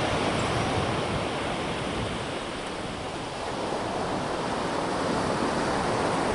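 Ocean surf washing onto the beach, a steady rushing noise that eases a little midway and swells again.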